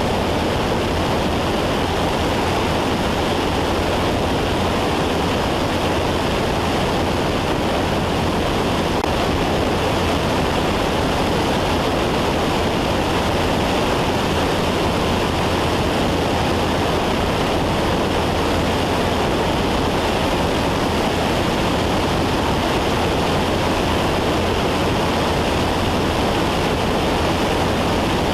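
Steady drone of a Cessna 172 in cruise, heard inside the cabin: engine and propeller noise mixed with rushing air, unchanging at a constant level.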